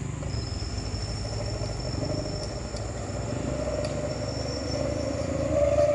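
Truck engine running with a low rumble, a thin steady whine above it. A mid-pitched tone grows through the second half and turns loud and steady near the end.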